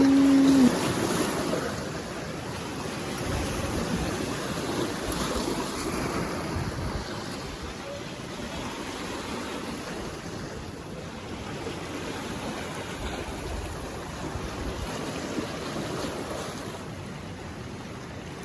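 Steady rushing wind on the microphone with water noise, rising and falling in gusts.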